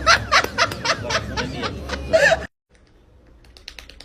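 A person laughing in short rapid bursts, about four a second, which cut off abruptly about two and a half seconds in. A few faint clicks follow.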